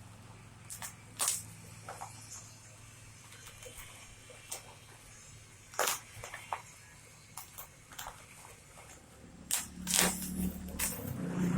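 Packaging being handled and opened: irregular clicks and crackles, the loudest about a second in, about six seconds in and near the end, over a low steady hum.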